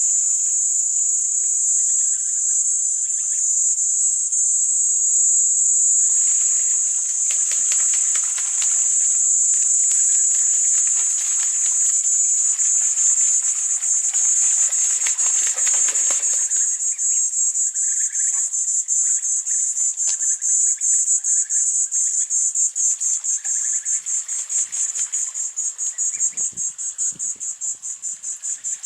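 Chorus of insects such as crickets, a loud, steady, high-pitched trilling that turns into an even, rapid pulsing in the last third. A broad rushing noise swells underneath for several seconds in the middle.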